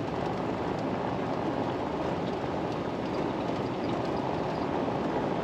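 Jeep rolling along a dirt road: steady tyre and road noise from inside the vehicle.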